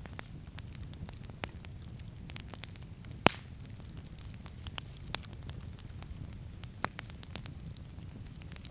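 Wood campfire crackling, with irregular sharp pops and one loud pop about three seconds in, over a steady low rumble.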